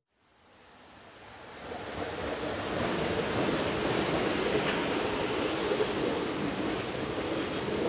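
Freight train hauled by an EF510 electric locomotive approaching. Its steady running noise rises over about two seconds, then holds loud.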